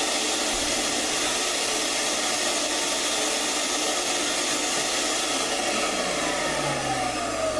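A power tool's electric motor running steadily, then switched off near the end, its pitch falling as it winds down.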